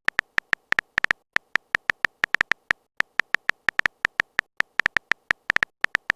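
Phone on-screen keyboard typing clicks: a rapid, uneven run of short taps, a few per second.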